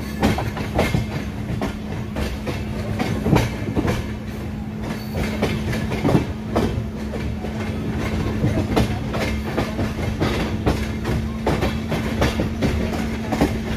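Train running on the rails: a steady low rumble and hum, with irregular clacks and knocks from the wheels over the track.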